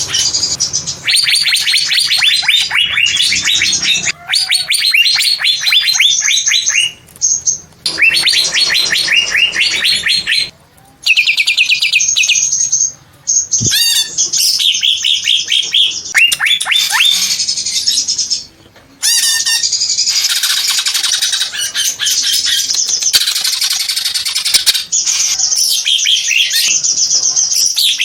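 Green cucak (greater green leafbird) singing loudly in long phrases of rapid chattering trills, with short breaks between phrases.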